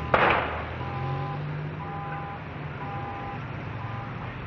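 An electronic beeper sounding a two-tone beep about once a second, over the low steady hum of an idling engine, with a sharp click or knock just at the start.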